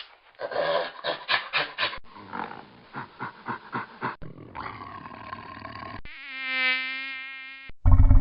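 A series of short animal sound clips cut one after another: rapid pulsed calls first, then a noisy stretch, and near the end a steady pitched drone lasting about a second and a half.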